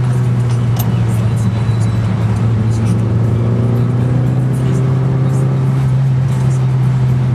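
Mitsubishi Lancer Evolution IX's turbocharged four-cylinder engine heard from inside the cabin, running at steady revs with an unchanging drone, and a few light ticks above it.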